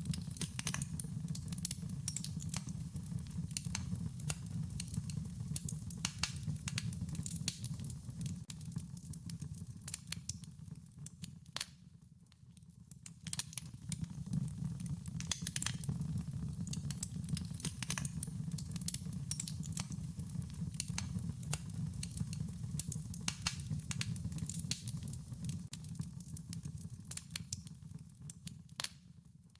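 Wood fire crackling, with many irregular sharp pops and snaps over a low steady rumble of burning. The sound dips briefly about twelve seconds in and again near the end.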